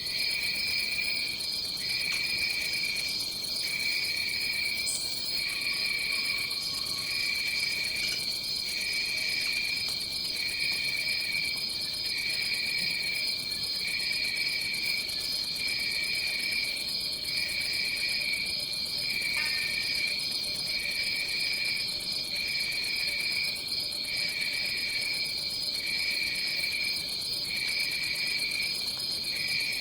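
Chorus of tropical forest insects: one steady high-pitched trill, with a lower chirring layer that pulses on and off in a regular rhythm about once a second.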